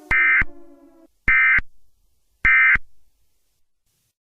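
Three short Emergency Alert System end-of-message data bursts, each about a third of a second long and about a second apart. They mark the close of an alert message. A falling siren tone fades out under the first burst, about a second in.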